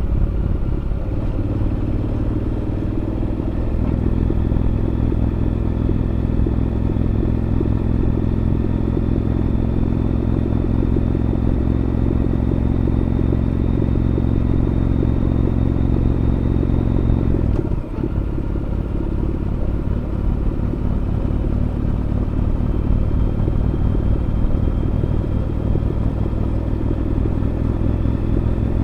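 Honda NC750X parallel-twin motorcycle with a Moriwaki aftermarket muffler, running steadily under way. The pitch rises a little in the first few seconds, and the sound breaks off briefly about two-thirds of the way through before steady running resumes.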